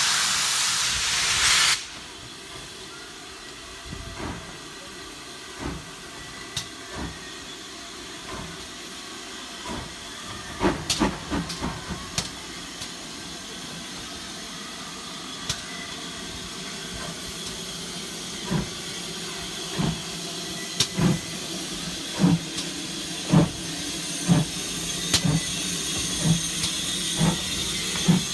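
GWR steam locomotive. A loud hiss of released steam cuts off suddenly just under two seconds in. It is followed by scattered thuds that build into a beat of about one a second near the end as the engine gets under way.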